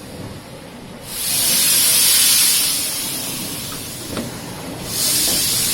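Steam locomotive releasing steam with a loud hiss: one long burst swelling about a second in and fading, then a second surge near the end.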